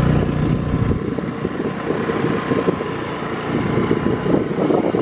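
Vehicle engine running with wind buffeting the microphone; the low engine hum drops away about a second in, leaving mostly the crackling wind rumble.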